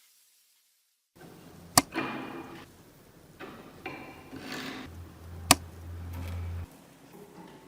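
Workshop handling sounds from the metal parts of an antique kerosene lamp being worked on: two sharp knocks about four seconds apart, with scraping and rattling between them and a brief low hum near the middle.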